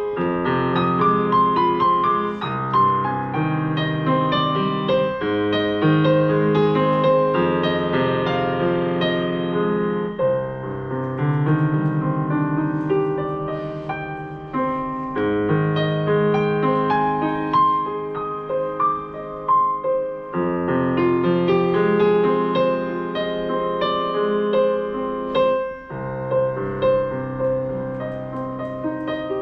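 Solo piano playing a gentle, flowing prelude with sustained chords under a repeated melodic figure in the middle register.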